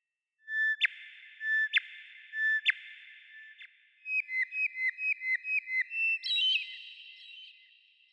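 Bird song of clear whistled notes. A few long held notes are cut by sharp clicks, then a quick run of about ten short notes at roughly five a second, ending in higher notes that fade away.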